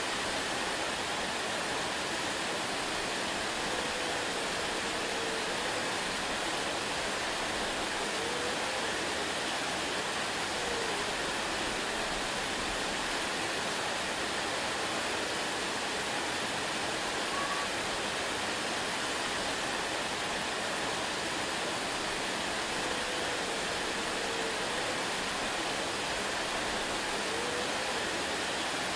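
Waterfall rushing in a steady, even roar of falling water, with a few faint short whistling calls over it now and then.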